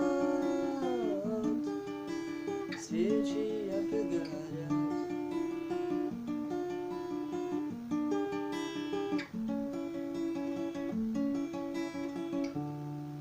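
Acoustic guitar playing the song's closing bars as a picked accompaniment, with one note after another. A held sung note slides down and ends in the first second or so.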